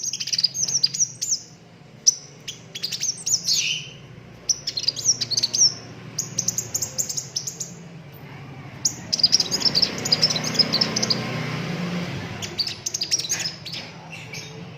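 Sunbird song: bursts of rapid, high-pitched chirps and twittering trills, with short pauses between the phrases, over a steady low hum. A soft hiss rises under the song in the middle.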